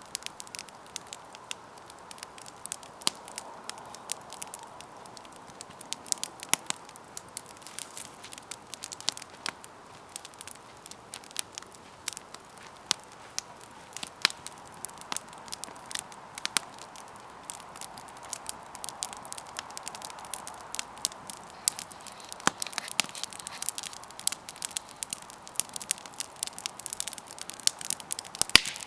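Campfire burning, wood crackling and popping in irregular sharp snaps over a steady soft hiss of flame.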